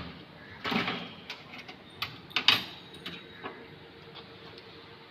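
Tools and metal parts clanking and knocking while being handled: several short, sharp knocks with a little metallic ring, bunched in the first three and a half seconds, then quieter.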